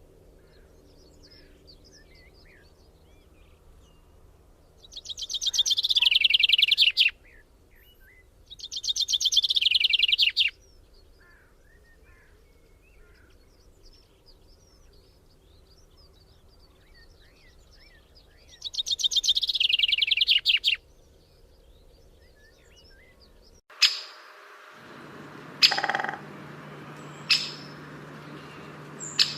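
A songbird singing a fast, descending trill of about two seconds, three times, over faint scattered chirps. Near the end the background changes abruptly and a few short, sharp calls follow.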